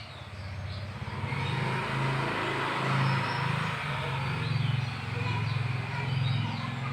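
A motor vehicle passing by. A rushing noise swells after about a second and eases near the end, over a steady low engine hum, with a few faint bird chirps.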